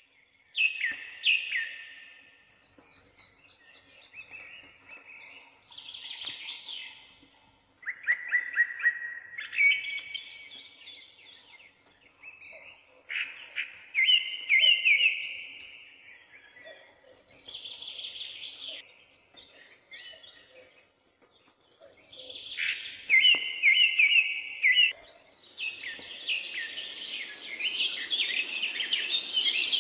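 A songbird singing short trilled phrases, one every few seconds, with a steady hiss of outdoor ambience coming up near the end.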